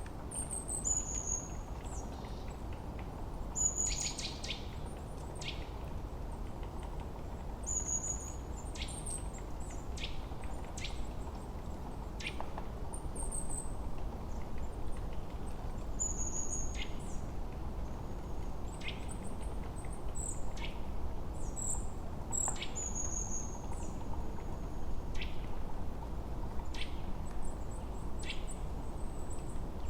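Forest birdsong: short high whistled notes that fall in pitch, and quick sharp chirps, coming every second or two over a steady low rushing background.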